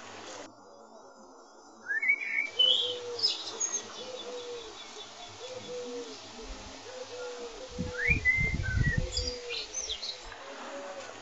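Birds chirping, with short high chirps and quick rising whistled calls over a low call that repeats every half second or so. A burst of low rumbling comes about eight seconds in.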